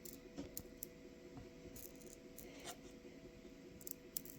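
Faint, irregular crackle of tiny static discharges as a finger draws charged air off the outside of a charged saltwater-capacitor bottle, scattered sharp ticks a few times a second.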